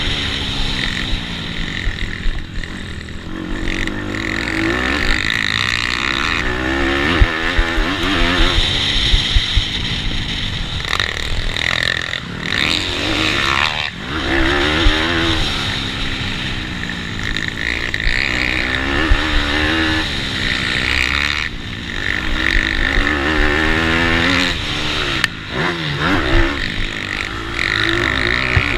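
Pitbike engine racing hard, climbing in pitch and dropping again over and over as the bike accelerates, shifts and brakes for corners.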